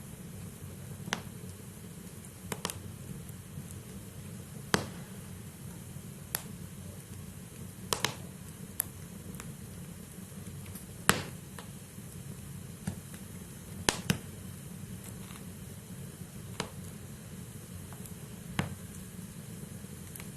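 Wood fire burning in a fireplace: a steady low rumble of flame with sharp crackles and pops from the burning logs, about a dozen of them at irregular intervals, a few loud ones standing out.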